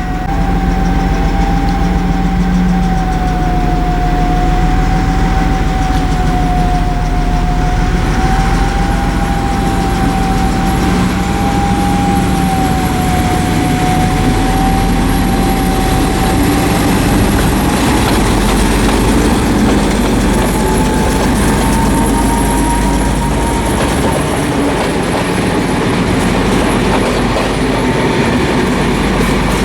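Train pulling out of the station at close range: a loud, steady running sound with a whine that wavers and climbs a little after about twenty seconds as it gathers speed.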